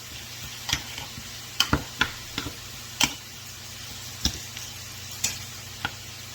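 Utensil clicking and scraping against a bowl while charred chicken is stirred into ranch dressing: about ten irregular sharp clicks over a low steady hum.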